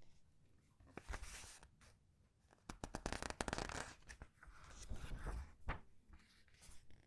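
Comic book paper pages being turned and squeezed: soft rustles with a dense run of crinkling crackle about three seconds in and a sharp paper snap near the end.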